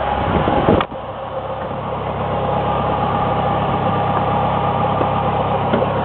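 A 1996 Chevrolet Cavalier Z24's 2.4-litre twin-cam four-cylinder engine idling steadily, sounding pretty good. A brief noise at the start cuts off suddenly under a second in.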